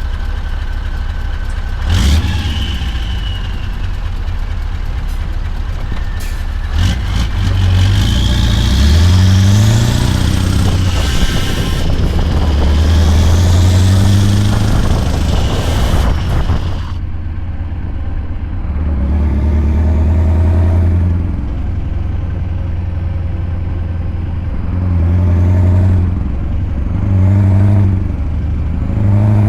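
Scania V8 diesel truck engine pulling a load, its revs climbing and dropping several times as it works through the gears. There are sharp knocks about two and seven seconds in. The sound turns duller about two-thirds of the way through.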